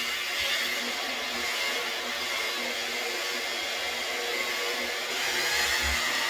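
DeWalt variable-speed buffer running steadily, its finishing-polish pad working the polish to take out swirls; it gets a little louder about five seconds in.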